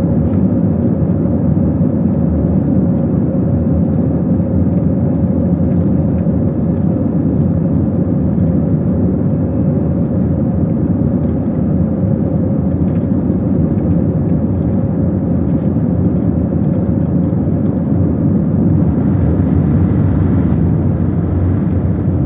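Jet airliner engines running at high power during takeoff and climb-out: a loud, steady noise with a held hum.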